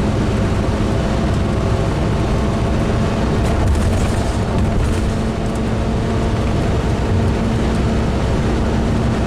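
Steady engine and road noise heard from inside a Class A motorhome's cab while it cruises on the highway, with a constant hum running through it.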